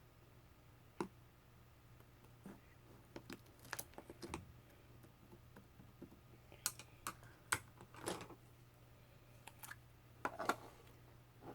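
Slime being squeezed and worked by hand, giving irregular sticky clicks and small crackling squelches, some in quick clusters.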